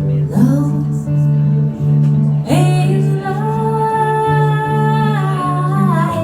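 Live song: a voice singing over a plucked acoustic guitar. About two and a half seconds in, the singer holds one long note that slides down near the end.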